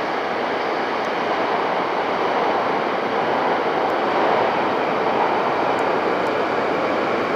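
Steady, even rushing noise of a train in an underground station, echoing through the platform hall, swelling slightly in the middle.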